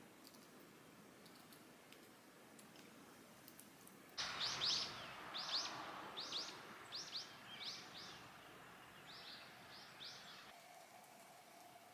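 Wild birds chirping outdoors: a run of about a dozen short, high, falling chirps that starts suddenly about four seconds in and stops about ten and a half seconds in. Before the chirps there is only faint room tone with a few tiny clicks.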